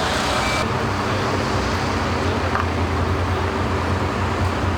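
Steady roadway traffic noise with a low engine hum underneath.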